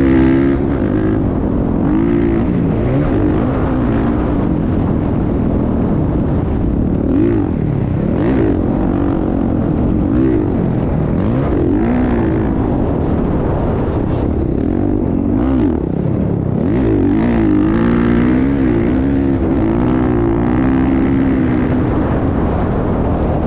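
Motocross dirt bike engines revving, the pitch rising and falling again and again as the throttle opens and closes.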